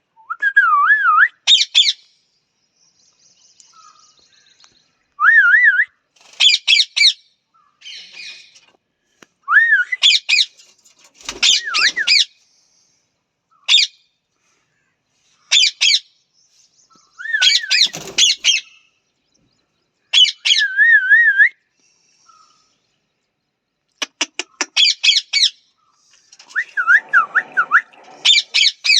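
Parrot calling: loud squawks and warbling calls that waver up and down in pitch, in bursts of about a second with short pauses between. Near the end come quick runs of sharp clicking notes.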